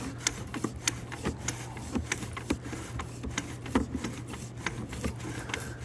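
Sewer inspection camera push cable being fed along a drain line: irregular clicks and knocks, several a second, over a steady low hum.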